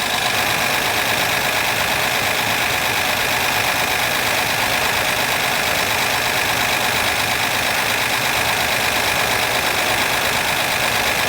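Honda Accord V6 engine idling steadily, with what feels like a rolling misfire, one cylinder maybe not contributing; misfire codes point to cylinders 3 and 6.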